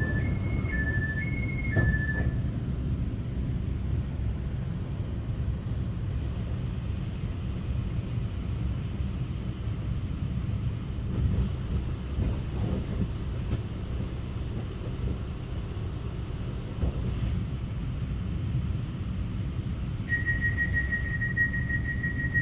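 Cabin rumble of a Taiwan Railway EMU900 electric multiple unit train running on the line. Alternating two-pitch beeps stop about two seconds in, and a steady high tone comes in near the end.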